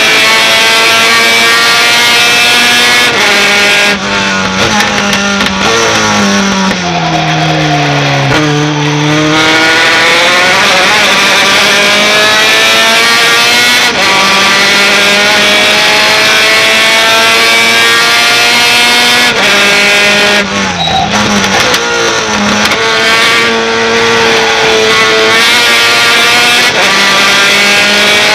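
Race pickup truck engine at high revs, its pitch climbing steadily under power. About four seconds in the revs drop and fall away for several seconds as the driver lifts and shifts down for a corner, with another brief lift about twenty seconds in, before it pulls hard again.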